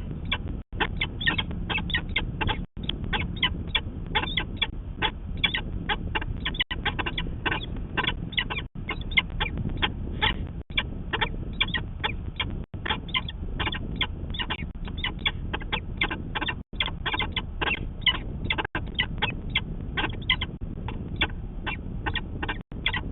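Peregrine falcon calling over and over in a rapid series of short, harsh notes, several a second, over a steady low rumble. The sound cuts out briefly about every two seconds.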